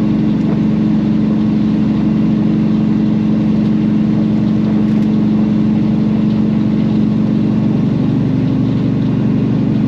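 Peterbilt semi tractor's diesel engine running steadily under way, a constant drone with road noise.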